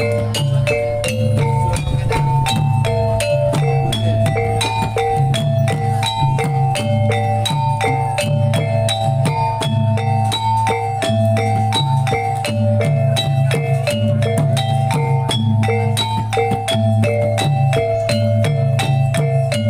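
Reog accompaniment music: gamelan-style tuned metal percussion striking a busy repeating melody over a steady low drum pulse.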